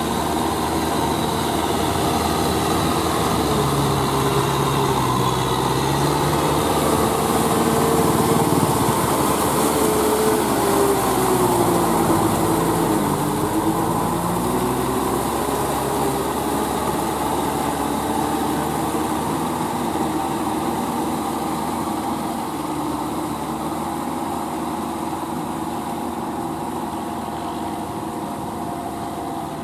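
Kubota M6040SU tractor's diesel engine running steadily while working a wet paddy field, its pitch dipping under load about halfway through and then recovering. It grows slowly fainter toward the end.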